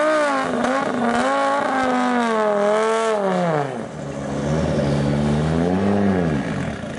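Rally car engine revving hard, its pitch swinging up and down, then falling sharply about three and a half seconds in. It settles lower, then climbs and falls again near the end.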